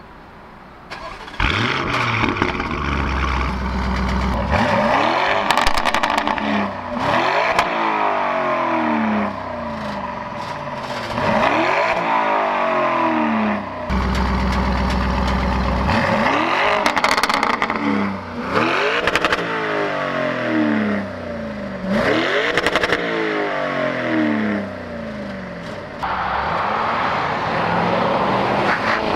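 Lamborghini Urus twin-turbo V8 with a Novitec exhaust, tuned to 840 hp, starting about a second in and idling, then revved again and again in short blips that rise and fall, with sharp pops at several of the blips. Near the end it pulls away and accelerates steadily.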